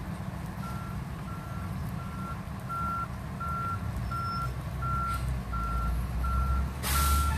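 Vehicle reversing alarm beeping about one and a half times a second over a low engine rumble, with a short hiss near the end.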